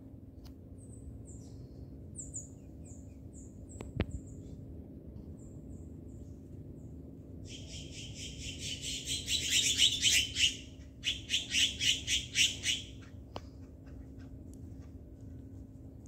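Birds in a garden tree: short high chirps, then a loud, harsh, rapid chatter from a bird lasting about three seconds, followed by a second run of quick pulsed calls, about four a second. A single sharp click sounds once early in the chirping.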